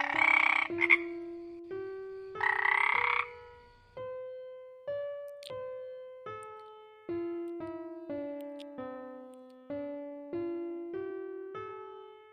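Two short, rasping animal calls about two seconds apart near the start, over gentle keyboard music playing a steady run of notes.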